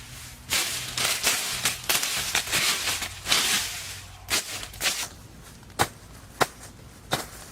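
A series of sharp knocks, with rough scraping between the knocks for the first few seconds, then single knocks about every half second to a second.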